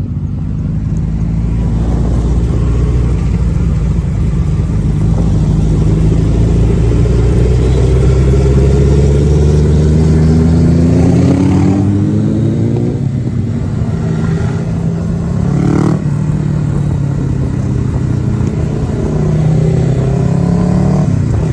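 Kawasaki ZX-10R's inline-four engine with its stock exhaust pulling hard under acceleration: the pitch climbs steadily for about ten seconds, drops at an upshift, climbs again, then settles into a steadier run with another shift near the end.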